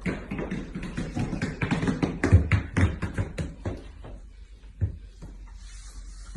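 A rapid, irregular run of taps and knocks, dense for about four seconds, then sparser and quieter.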